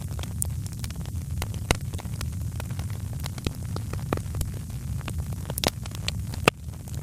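Wood fire crackling: frequent sharp pops and snaps over a steady low rumble, with one louder pop near the end.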